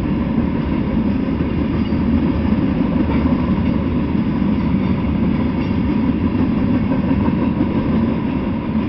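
Freight train cars, tank cars and covered hoppers, rolling past on the rails with a steady rumble of wheels and running gear.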